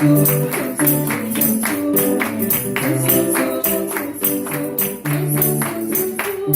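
Live instrumental music: bass and sustained pitched notes over a steady beat of bright, sharp percussion strikes.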